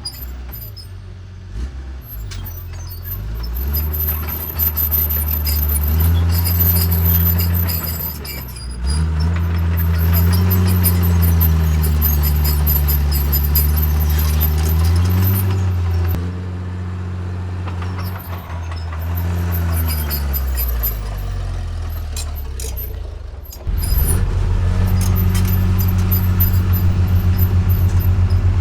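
Diesel engine of heavy earthmoving machinery working under varying load, its pitch rising and falling several times as it revs up and eases off. About three-quarters of the way in it jumps louder and runs steadily at high revs.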